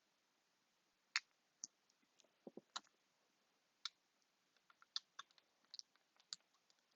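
Faint scattered clicks and taps, about a dozen, as hands handle and position tape and cut craft pieces.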